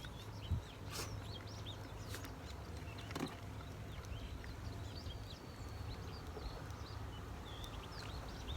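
Quiet rural outdoor ambience: faint scattered bird chirps over a low, steady distant rumble, with a few sharp clicks about a second and three seconds in.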